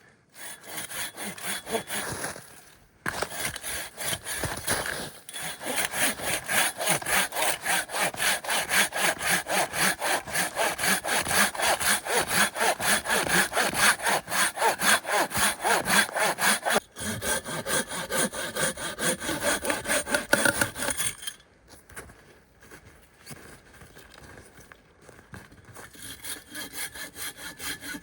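Hand saw cutting through wood with quick, even back-and-forth strokes. There is a short pause about three seconds in and a longer, quieter break near the end before the sawing starts again.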